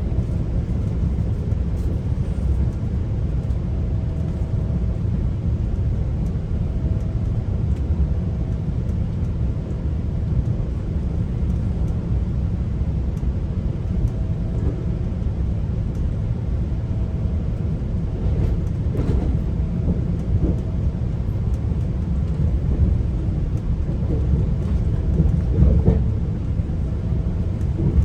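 Steady low rumble of a GO Transit commuter train running along the track, heard from inside a passenger coach. A faint hum comes and goes over it, and the rumble swells slightly near the end.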